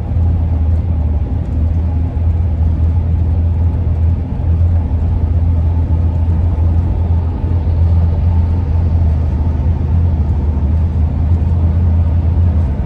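Cabin noise of a 2001 Ford E-350 van under way: steady low road and engine rumble with a steady howling from the roof rack as air rushes over it.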